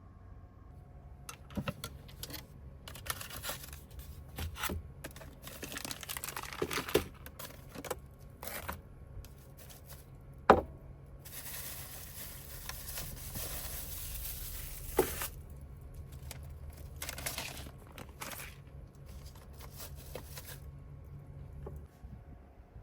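Irregular rustling and crinkling handling noises, like packaging or a bag being handled, with scattered clicks and one sharp knock about ten seconds in.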